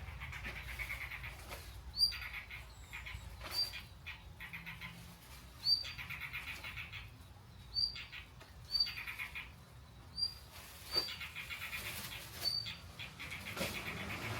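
A wood campfire burning in the rain, crackling and hissing, with short high chirps or squeaks recurring every second or two and sharp pops among them.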